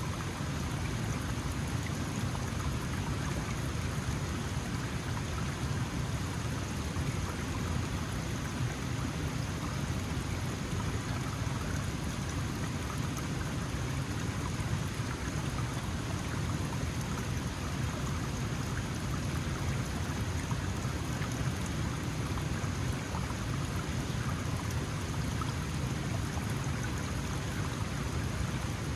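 A small mountain stream flowing and splashing, a steady rushing of water.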